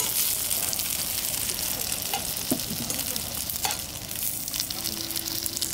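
Dumpling buns frying in oil in a steel wok, sizzling and crackling steadily, with a few sharp clicks of metal tongs against the pan.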